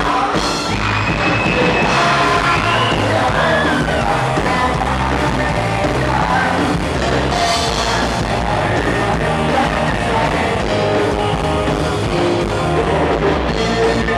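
A live rock band playing loudly, electric guitar, bass and drums, with singing.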